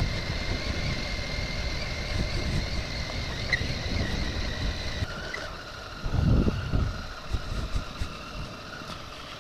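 Motorcycle engine running under way on a dirt track, with a steady note and a constant low rumble. About five seconds in the engine note steps down lower, as when the rider eases off or changes gear.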